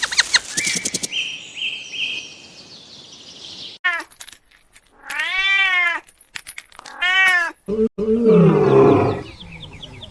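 Several different animal calls in quick succession: a burst of clicks and high stepped chirps at the start, then two wailing calls that rise and fall in pitch, and a louder, lower call near the end.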